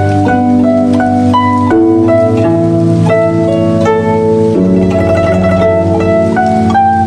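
Guzheng playing an instrumental melody: a quick run of plucked notes, each ringing on over sustained lower notes.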